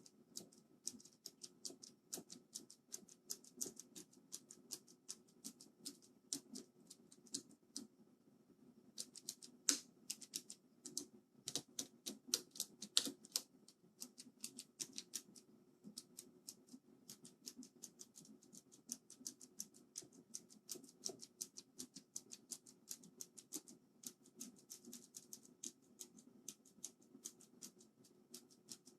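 Cherry MX Blue keyboard switches on a bare circuit board pressed one after another in quick clicks, with a short pause about eight seconds in. Each switch is being tested for stickiness left by spilled cola.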